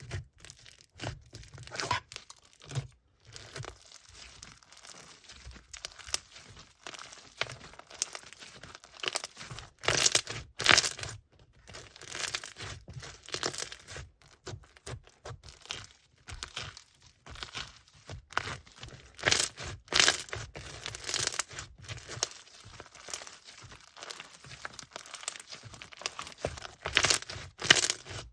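Hands working slime and its packaging at close range, making crackling and rustling in uneven bursts, with sharper, louder crackles about ten seconds in, about twenty seconds in and near the end.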